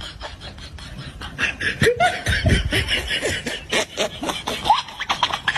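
A person laughing.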